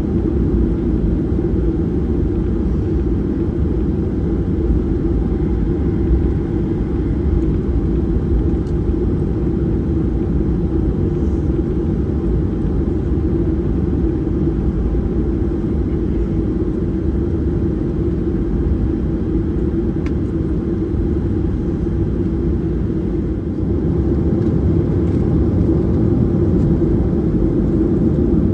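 Boeing 737-800 cabin noise: a steady low rumble of engines and airflow, with a slight rise in level near the end.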